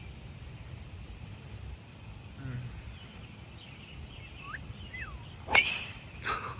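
Golf club striking a ball: one sharp crack about five and a half seconds in, followed by a softer knock, over a steady outdoor hiss.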